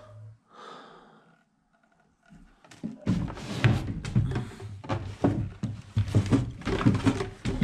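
Quiet for the first couple of seconds, then from about three seconds in a rapid, loud run of knocks and thuds, like things being handled and bumped about.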